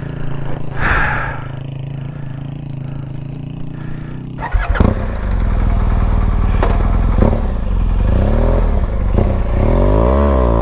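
Motorcycle engine running steadily. About four and a half seconds in there is a sharp knock, then the engine gets louder and is revved up and down several times near the end.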